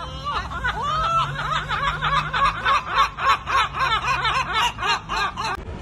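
A gull's laughing long call: a series of loud yelping notes that quickens to about five a second, then cuts off suddenly near the end.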